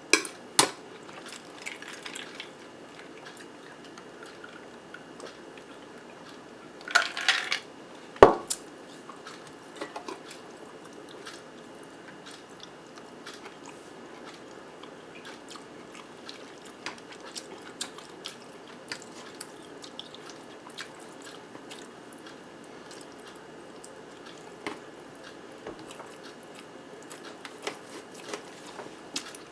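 Close-miked chewing of soft, cheesy zucchini boat with ground turkey, with small wet mouth clicks throughout. About seven seconds in comes a brief scraping noise, followed by a single sharp knock, the loudest sound.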